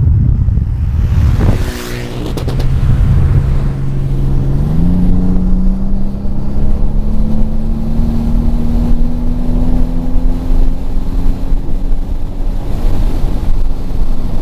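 Car engine pulling steadily, its pitch stepping up about five seconds in and then climbing slowly and evenly, over a loud low rumble. A brief sharp noise comes near two seconds in.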